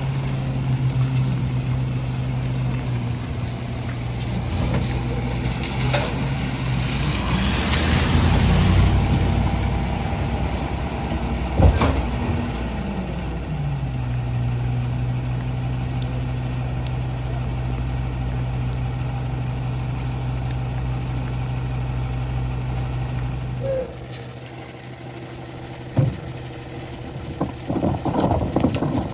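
Garbage truck's diesel engine running steadily, then revving for several seconds under a swelling hiss and a couple of sharp knocks as the rear packer cycles, before gliding back down to idle. Near the end the engine sound drops away, followed by a few clanks.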